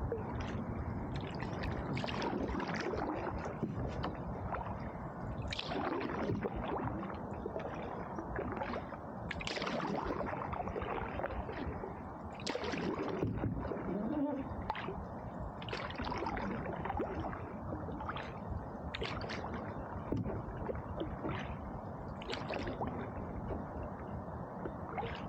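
Canoe paddle strokes in river water: short splashes roughly every second or two, with water gurgling along the hull.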